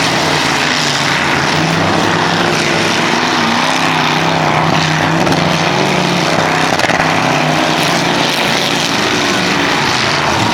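Engines of demolition derby trucks running loud together, a steady din with pitch wavering up and down as they rev.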